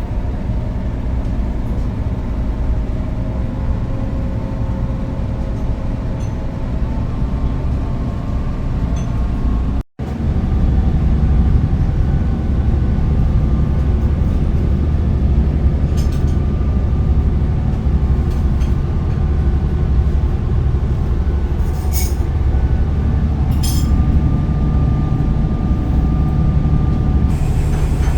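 Steady low drone of a passenger motorboat's engine while underway. About ten seconds in it cuts out for a moment and comes back louder, with a few light clicks later.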